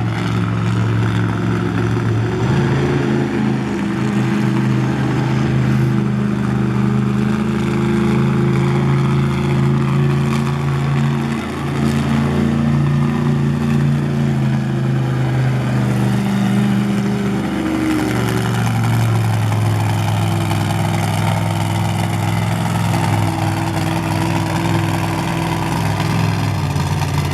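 Loud monster truck engines running throughout, the engine note stepping up and down several times as the trucks rev, with a brief dip about eleven seconds in.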